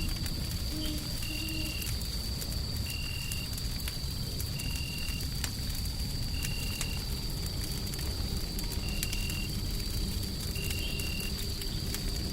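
Fireplace wood fire crackling with scattered sharp pops over a steady deep white-noise rumble and a faint high whine. A short high chirp repeats about every one and a half seconds.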